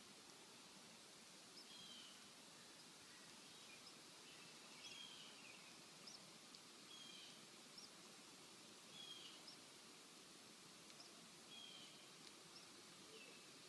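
Faint small-bird chirps: short downward-sliding calls repeated about every one to two seconds, with thin higher notes between, over a steady hiss.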